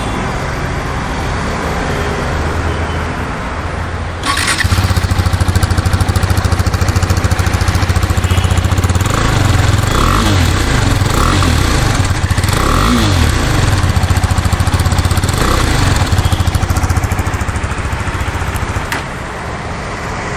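A 2022 KTM RC 390's single-cylinder engine on its stock exhaust. About four seconds in there is a sudden click and the engine comes in loud and pulsing; it idles with a few short rises and falls in pitch from throttle blips. The sound is a decent, fairly tame note rather than the raw sound of the older KTMs.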